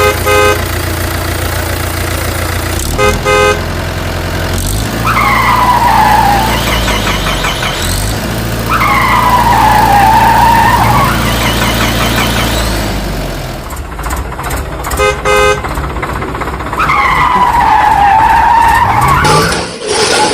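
Cartoon vehicle sound effects: an engine running steadily, short horn beeps at the start, about three seconds in and again later, and three long whines that dip in pitch and rise again.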